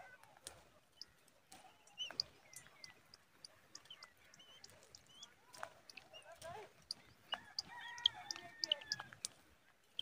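Hawk chicks calling at the nest as the parent feeds them, with scattered short high chirps and clicks. A run of longer, pitched calls comes about seven and a half to nine seconds in.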